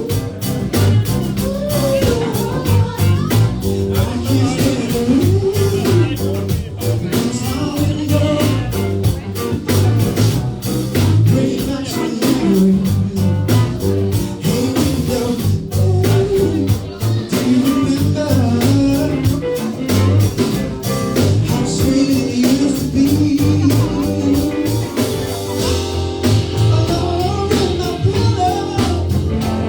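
A band playing a soul-rock cover, with a singer's melody over a bass line and a steady drum beat.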